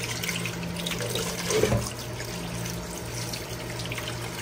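Tap water running into a sink while just-boiled pork offal is rinsed under it, with a brief knock about a second and a half in and a steady low hum underneath.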